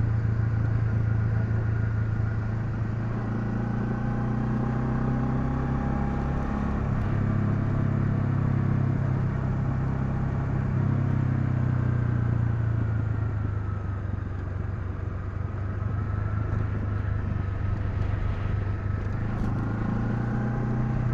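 Honda CL250's single-cylinder engine running steadily while riding. The engine note shifts about seven seconds in, then dips and rises again around the middle.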